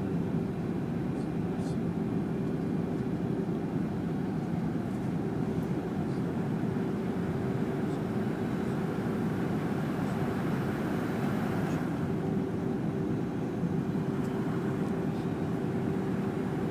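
Cabin noise inside a Fokker 100 jet airliner in flight: its rear-mounted Rolls-Royce Tay turbofans and the rushing air make a steady, even noise with a constant low drone.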